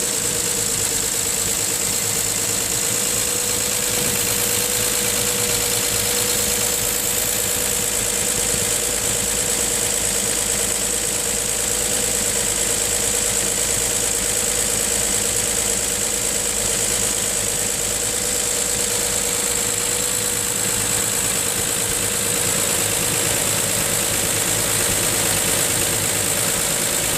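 An engine running steadily at idle, with an even, unchanging note and no revving.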